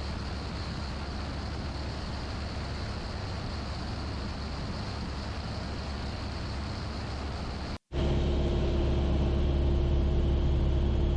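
Steady drone of a Piper Archer's four-cylinder Lycoming engine and propeller in level flight, heard as cockpit audio. About eight seconds in the sound cuts out for a moment and comes back louder, with a deeper hum.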